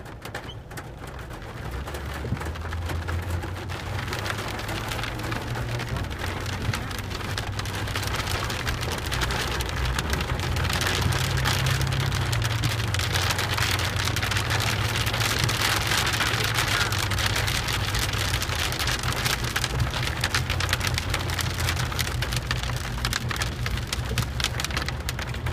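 Heavy rain pelting down during a thunderstorm, growing heavier over the first ten seconds or so, with a low rumble running underneath.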